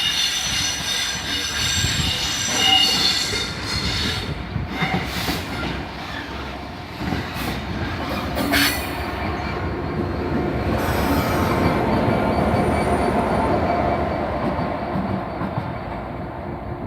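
A Class 66 diesel locomotive running light, without wagons. Its wheels squeal high and steady for the first few seconds, then its two-stroke V12 diesel engine rumbles, growing louder around the middle of the passage.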